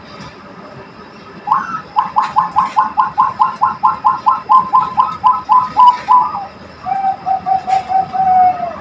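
A female cooing dove calling: a quick, even run of short coo notes, about four a second, then after a short pause a lower, steadier drawn-out coo near the end. It is the kind of hen's call that breeders of cooing doves look for in a breeding female.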